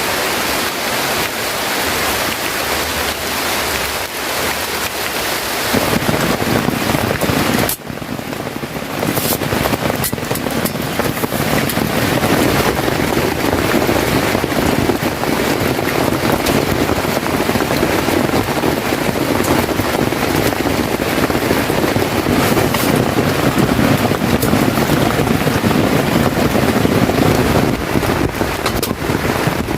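Heavy rain falling steadily, a dense hiss that grows fuller and deeper about six seconds in, with a brief drop just before eight seconds.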